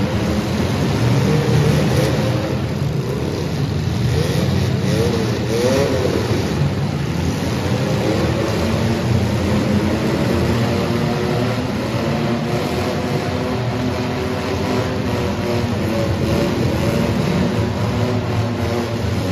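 Engines of several compact demolition-derby cars running and revving together, their pitch rising and falling again and again.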